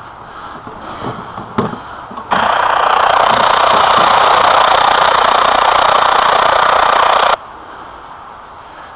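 Radio scanner's loud static hiss, which cuts in abruptly, holds steady for about five seconds, then cuts off just as suddenly, as the squelch opens and closes.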